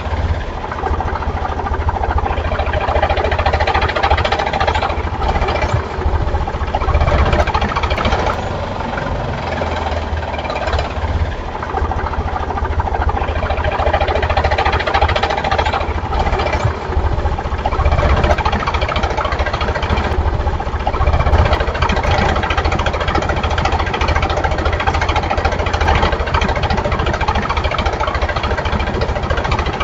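Tractor engine running steadily at low speed, a constant chugging idle.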